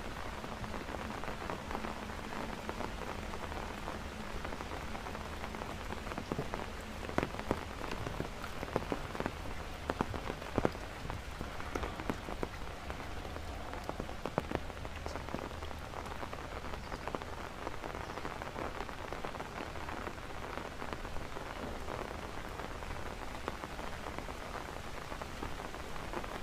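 Heavy rain falling steadily, with a cluster of sharper taps about a third of the way in.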